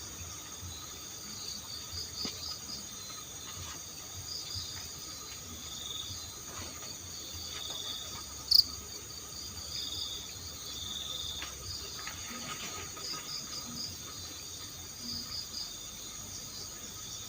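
Night insect chorus: crickets trilling steadily at several pitches, with one short sharp click a little past halfway and a few faint knocks.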